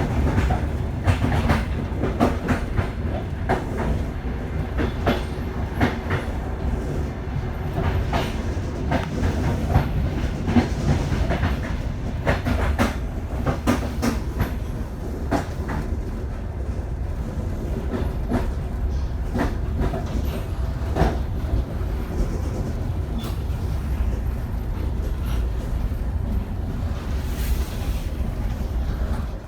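Passenger train running on the rails: a steady low rumble of wheels and carriages with frequent irregular clicks and knocks of wheels over rail joints.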